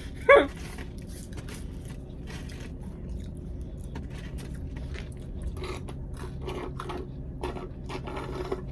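Close-miked chewing of crispy fried chicken tenders: irregular crunches and wet mouth clicks.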